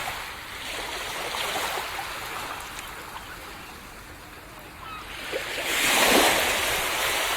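Sea waves washing onto a beach. The surf rush eases off, then a wave breaks about six seconds in, the loudest moment, and slowly washes back.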